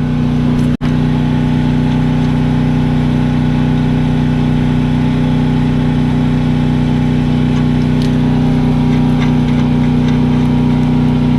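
An engine idling steadily, a constant hum, with a sharp momentary dropout in the sound less than a second in.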